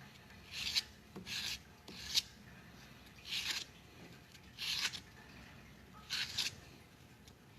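Hand deburring of a machined shift knob: six short scraping strokes on the inner edge of its bore, spaced irregularly.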